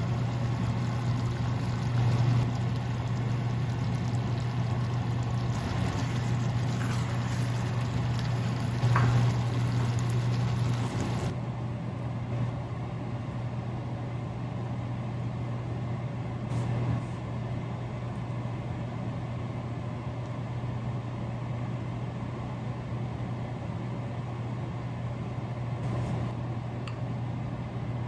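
Steady low mechanical hum under a haze of faint noise, with a few light ticks. The high hiss drops away suddenly about eleven seconds in.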